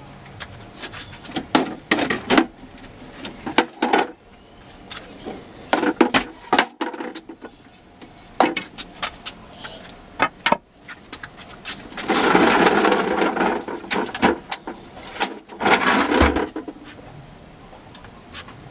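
Irregular knocks, clicks and scraping of wood and tools being handled, with two longer scraping or sliding stretches, one about twelve seconds in and a shorter one about fifteen seconds in.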